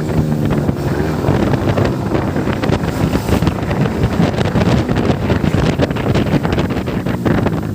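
A motorcycle riding at speed, with heavy wind buffeting the microphone. The engine's note shows through at the start and again near the end.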